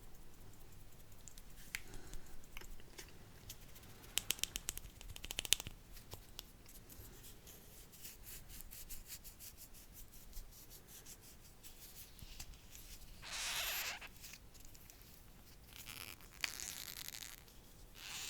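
Close-miked ASMR mouth sounds: scattered wet clicks and pops, a quick run of sharp clicks about four seconds in, and two short breathy hisses near the end.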